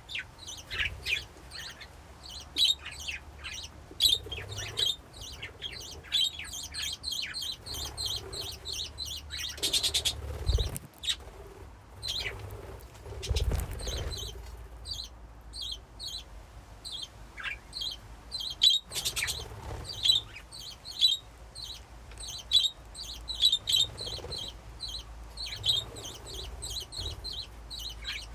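A flock of budgerigars in a colony cage chirping and warbling continuously, many short overlapping calls, with wing flutters and rustling now and then.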